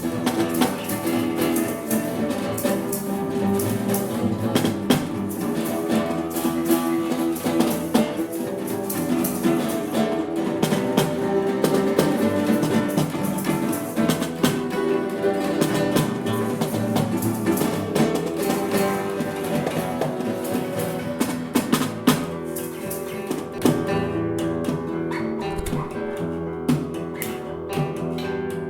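A rock band playing an instrumental passage: electric guitar over bass guitar, with steady sharp hits through it.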